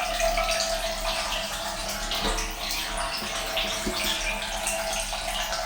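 Small DIY electric boat's propeller churning and splashing the water, with a steady high whine from its electric motor.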